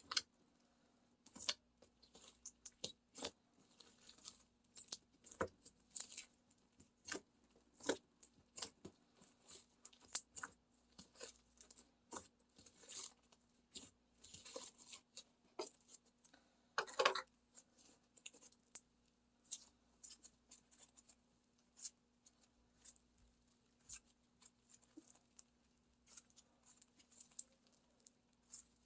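Black smoothie slime with foam beads being squished and stretched: irregular crunchy crackles and small pops, with one longer, louder crackle about two-thirds of the way in.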